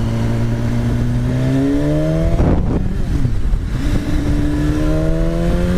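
BMW S1000RR inline-four sport bike engine accelerating: its pitch climbs, dips briefly about two and a half seconds in as it shifts up, then climbs again.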